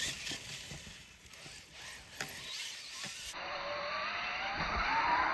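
Losi LMT radio-controlled mega truck's electric motor and drivetrain whining, the pitch rising steadily as the truck accelerates over the last two seconds. Before that, only faint scattered knocks and clicks.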